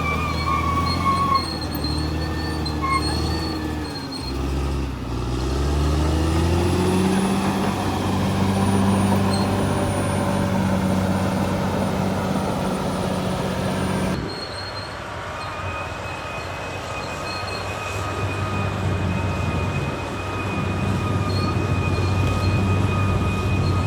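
Caterpillar bulldozer's diesel engine running under load, its pitch dipping and then climbing again about five seconds in, with a thin high squealing tone from the track undercarriage over it. The sound changes abruptly about fourteen seconds in, then carries on as a steady engine note with the squeal.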